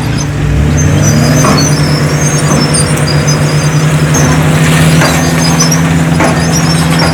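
Heavy diesel engine of a construction machine running steadily under load, with a short rise in engine pitch about a second in and a few sharp metallic knocks and clanks scattered through.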